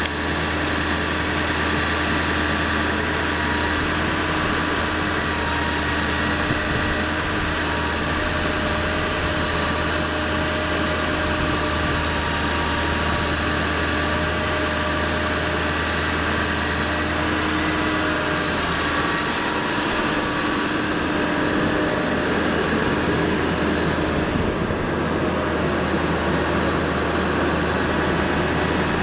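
Ford F-450's 7.3-litre Power Stroke V8 turbodiesel running steadily at idle, with a steady whine above the engine hum.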